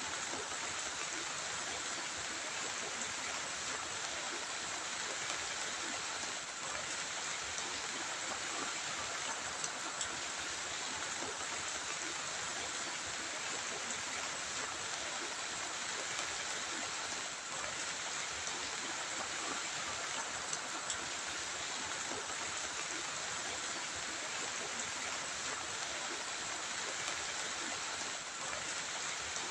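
Heavy rain falling in a steady, even hiss, with occasional faint ticks of single drops.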